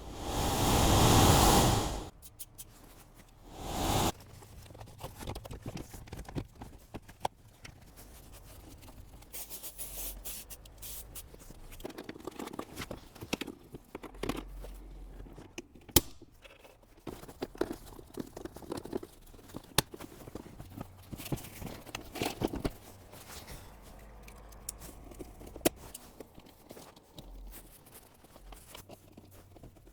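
Hands-on workshop noises: a loud rushing hiss for about two seconds at the start and a shorter one near four seconds, then scattered clicks, taps and scraping as parts are handled.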